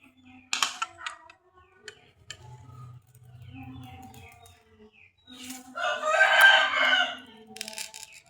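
A rooster crowing once, loud and drawn out for about a second and a half, starting about six seconds in. A short metallic clatter comes near the start.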